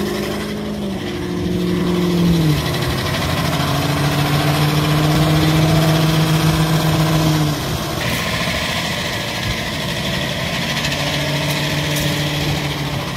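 Dodge Challenger Hellcat's supercharged V8 held at high, steady revs while its thin rear buggy wheels spin on the wet, snowy road. The engine note steps down in pitch twice, and a hiss joins in after about eight seconds.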